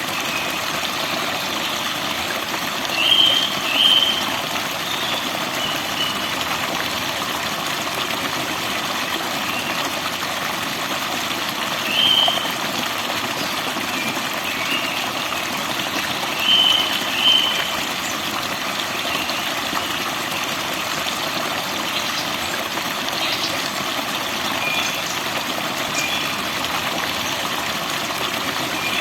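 Steady rushing of flowing water, with short bird chirps over it: a pair about three to four seconds in, one near twelve seconds, a pair near seventeen seconds, and a few fainter ones scattered between.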